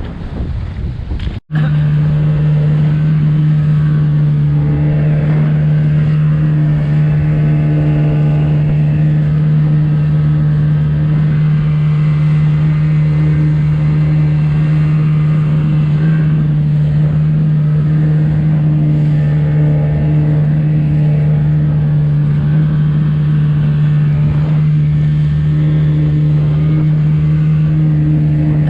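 Small boat's motor running at a steady speed, a loud even hum that holds one pitch. Wind noise comes first, cut off suddenly after about a second and a half.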